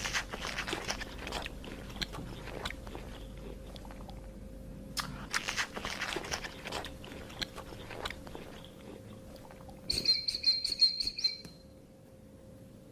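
An animal crunching and chewing food in irregular crackly bites, with a brief run of rapid, high chirps about ten seconds in.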